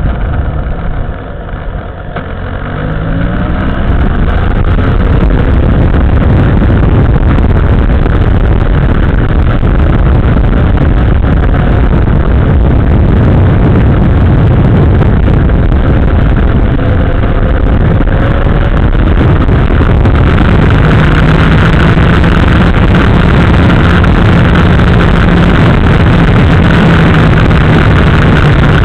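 Motorcycle engine running under way, picked up close to the engine block by a frame-mounted camera, so it comes through loud and rough. The engine eases off briefly about a second in, then rises in pitch as the bike accelerates, and settles into a steady run at speed.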